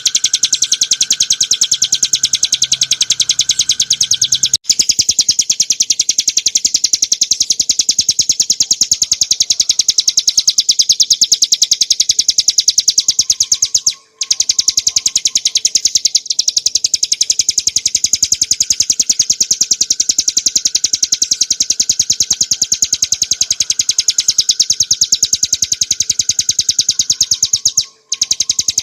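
Ciblek gunung, a prinia, singing a very fast, rattling trill of high notes, the 'ngebren' song used for masteran. The trill breaks off briefly about four seconds in, about halfway through, and near the end.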